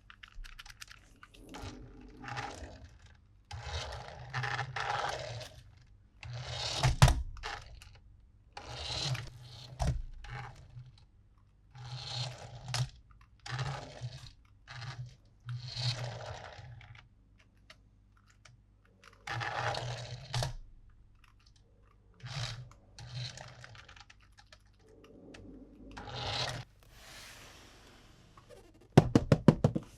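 Toy packaging being handled and opened: irregular bursts of crinkling, tearing and scraping with short pauses between, and a quick run of sharp clicks near the end.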